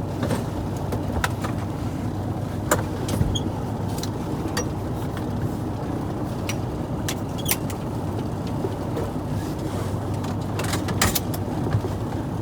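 Semi truck's diesel engine running at a steady idle, a continuous low hum, with a few sharp clicks and knocks scattered through it.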